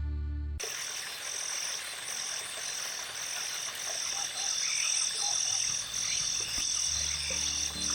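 Rural outdoor chorus of insects and frogs: a high chirp pulsing about twice a second over a steady high trilling, with scattered croaks beneath.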